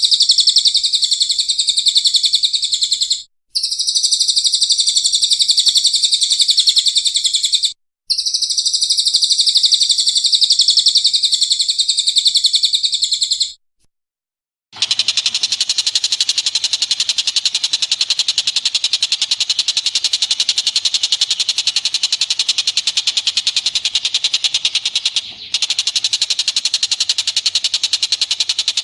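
Recorded bird song with rapid high chirping, repeated as a loop with two brief breaks. After about a second of silence near the middle, a different recording of high, rapid calls follows over more background hiss.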